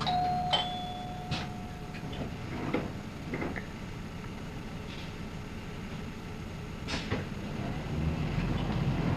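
Inside a Keikyu city bus: an electronic tone sounds for about two seconds, with scattered clicks and clunks of the doors and fittings. Near the end the engine note rises and grows louder as the bus moves off.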